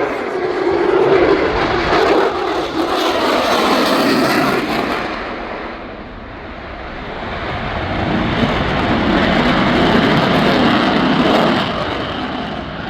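Airplane engine noise of an aircraft flying past: a loud rush with slowly sliding pitch that fades about six seconds in, then swells again.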